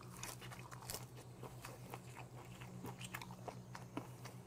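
A man chewing a mouthful of crisp raw greens close to a clip-on microphone: irregular crunches and wet chewing sounds.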